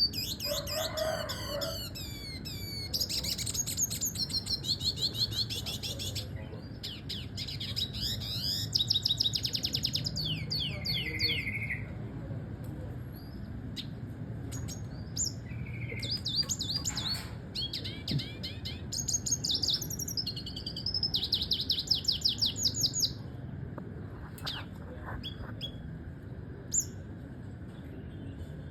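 Red siskin singing: long phrases of fast, high twittering trills and sweeping notes, broken by short pauses, thinning to scattered single notes in the last few seconds.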